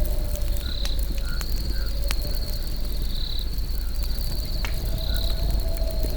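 Campfire burning with a low rumble and scattered sharp crackles and pops, under a steady high cricket trill that swells in short pulses about every two seconds.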